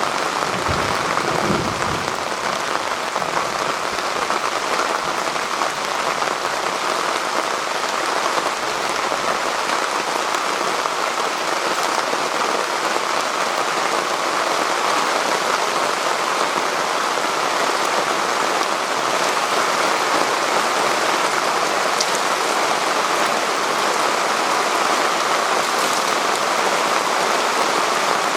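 Heavy rain pouring steadily in a thunderstorm and drumming on a tarp shelter overhead. The tail of a low thunder rumble dies away in the first two seconds.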